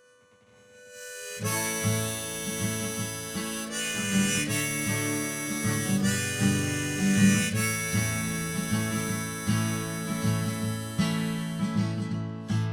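Instrumental introduction to an indie folk song on acoustic guitar and harmonica: after a faint held note, the full playing comes in about a second and a half in, with sustained harmonica chords over plucked guitar notes.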